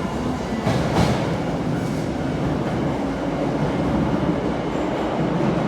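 Train running through an underground station, its wheels clicking over rail joints a couple of times about a second in, over a steady rolling rumble.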